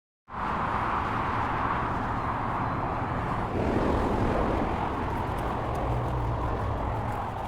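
Steady roar of a jet airplane passing overhead, with faint footsteps starting near the end.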